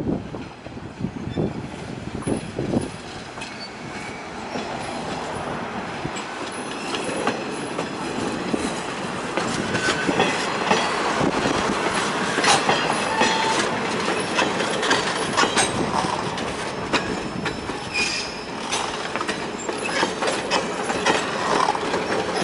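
Passenger coaches and a caboose rolling slowly past close by: steel wheels clacking over the rail joints, with short wheel squeals, growing louder over the first half as the cars come alongside.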